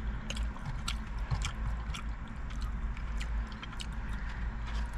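Eating sounds: chewing with scattered small clicks and scrapes of food and utensils, over a steady low hum.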